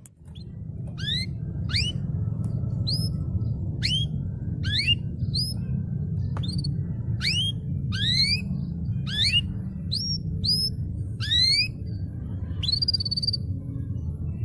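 Canary singing a series of clear, rising whistled notes, a little over one a second. The last note, near the end, rises and then holds. A steady low hum runs underneath.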